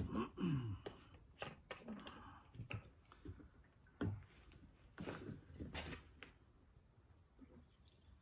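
Scattered light knocks and clicks, about half a dozen over several seconds, from a chainsaw and its parts being handled while it is readied for fuelling.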